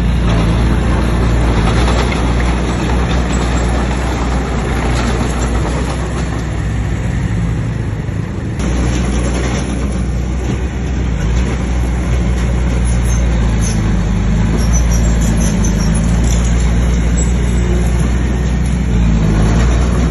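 Bulldozer's diesel engine running steadily under load, with a brief dip about eight seconds in before it picks up again.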